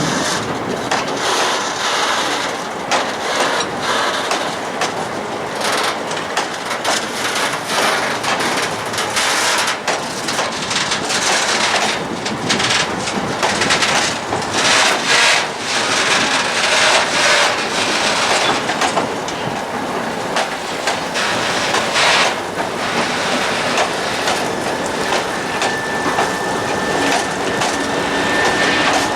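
A train of loaded self-discharging hopper wagons is pushed slowly along industrial track by a TEM2 diesel shunter. Wheels and couplings clatter and knock over the rail joints throughout, and a faint steady squeal joins in near the end.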